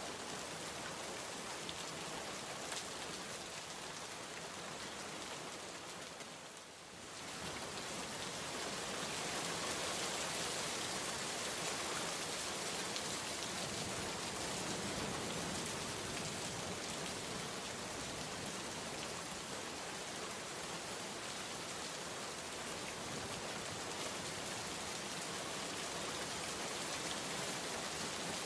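Steady rain falling in a dense, even hiss of many drops. The sound dips briefly about six to seven seconds in, then comes back slightly louder.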